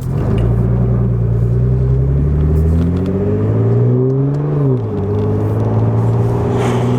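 Straight-piped Nissan GT-R R35's 3.8-litre twin-turbo V6 pulling under acceleration: the engine note climbs steadily, drops sharply at a gear change about two-thirds of the way through, then climbs again.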